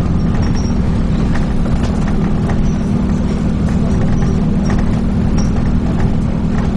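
Dennis Trident 2 double-decker bus heard from inside the saloon while driving: a steady low engine and road drone, with scattered light clicks and rattles from the bodywork.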